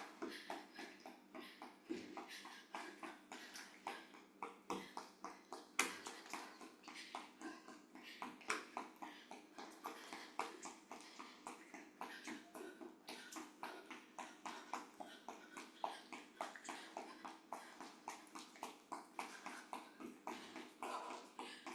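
Quick, light footfalls of running shoes on the floor during fast marching in place, about four steps a second, with a few heavier landings.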